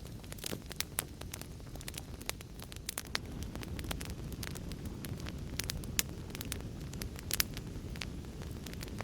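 Wood fire crackling, with irregular sharp pops and snaps over a steady low rumble of flames; a few louder pops stand out near the middle and toward the end.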